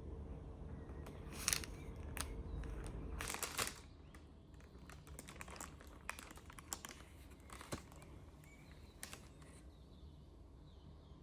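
Scattered light clicks and crinkling of small objects being handled, over a low steady hum that stops about three and a half seconds in.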